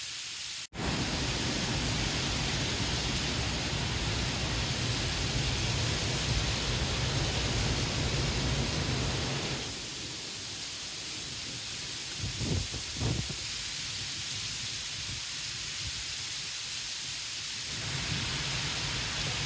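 Thunderstorm downpour: a steady hiss of heavy rain with strong gusting wind rumbling on the microphone. The wind rumble eases for several seconds midway and then picks up again.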